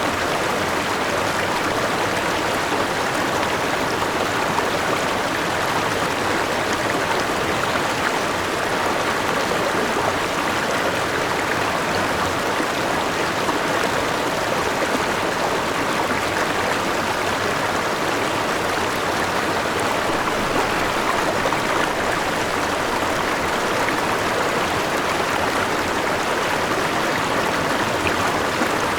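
Forest river rushing steadily over a small waterfall, a constant even sound of flowing water.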